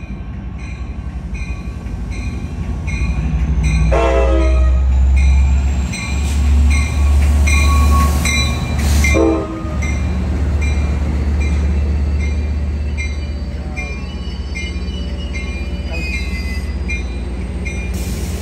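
Sound Transit Sounder commuter train pulling into the platform: a heavy low rumble swells as the train passes close by, with two short horn blasts, about four and nine seconds in. A bell rings steadily about twice a second throughout, and the rumble eases after the midpoint as the train slows.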